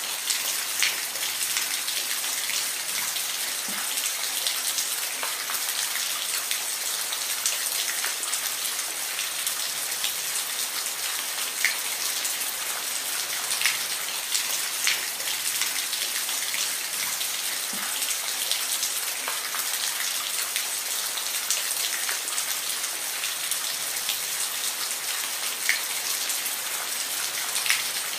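Steady rain falling, a dense hiss with many individual drops pattering close by on a hard surface.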